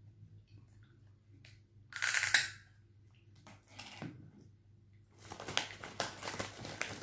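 Crackling and crunching of chicharon (fried pork rinds): a loud burst about two seconds in, a shorter one about four seconds in, and dense crackling over the last two seconds.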